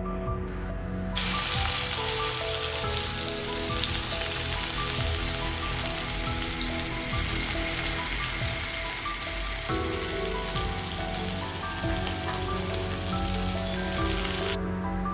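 Food sizzling in hot oil in a pan, an even hiss that starts abruptly about a second in and stops near the end.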